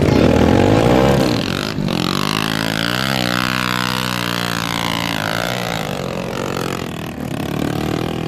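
Dirt bike engines revving, their pitch rising and falling.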